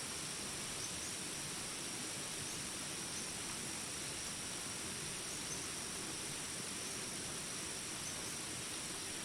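Steady rain hiss with a constant high-pitched insect drone over it, and a few faint short chirps scattered through.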